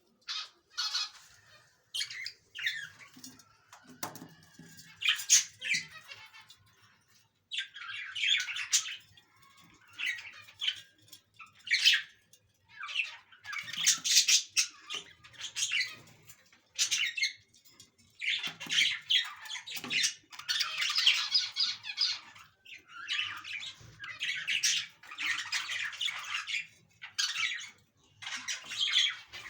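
Budgerigars chattering and squawking in repeated harsh bursts, with short pauses between them.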